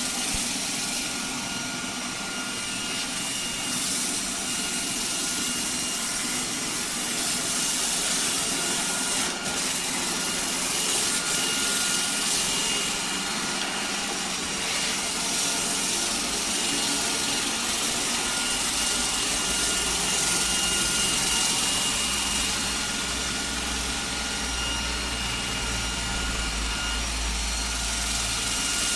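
iRobot Roomba 105 Combo robot vacuum running, a steady whine from its suction motor over a rush of air. A low rumble joins about halfway through.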